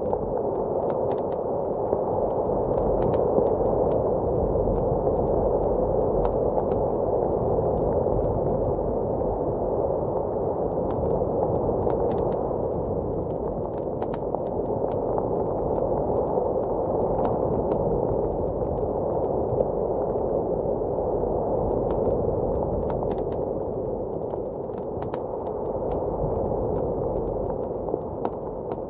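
Blizzard wind blowing steadily, slowly swelling and easing, with the scattered small pops and crackles of a wood fire in a fireplace.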